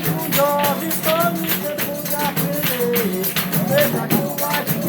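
Samba de roda chula music: voices singing a melody over a steady, evenly repeating beat of a jingling pandeiro (tambourine).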